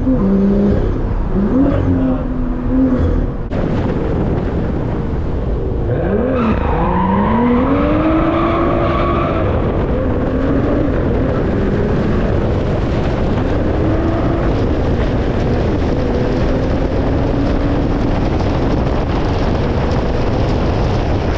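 Car engine accelerating, its note climbing steeply about six seconds in, then running steadily at cruising speed under road and tyre noise.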